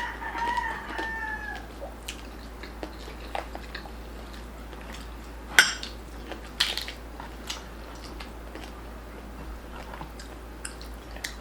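Biting and chewing on crispy lechon pork belly, with scattered crunches, the loudest about five and a half and six and a half seconds in. A rooster crows in the background at the start.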